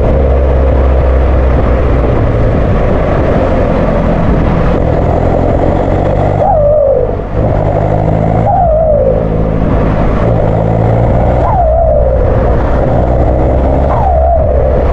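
Ford S-Max's 2.0-litre Duratorq diesel running through a straight-pipe exhaust with the back box deleted, blipped four times. Each time the revs drop, a falling turbo whoosh follows.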